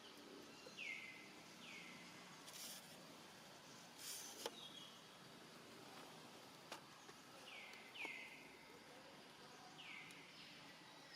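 Faint outdoor ambience with about six short bird chirps, each sweeping down in pitch, plus a few sharp clicks and two brief hissy rustles.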